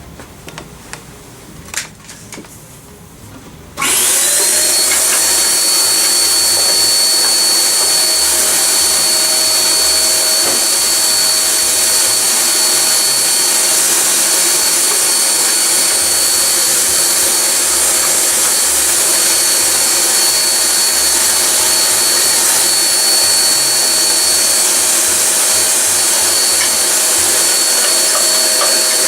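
A vacuum cleaner switched on about four seconds in, its motor rising to a steady high whine over a loud rushing of air, sucking up rubber shavings drilled out of the instrument's pin holes. Before it starts there are a few light clicks of handling.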